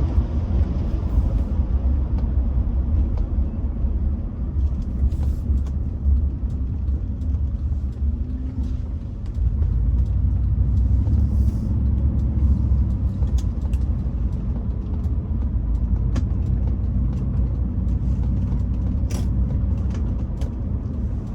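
Steady low rumble of engine and road noise heard inside a car's cabin on the move, with a few faint clicks.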